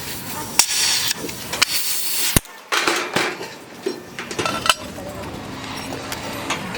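Scattered metal clinks and knocks over a hissing noise, from bodywork tools on a rusty car door. The sound briefly drops out about two and a half seconds in.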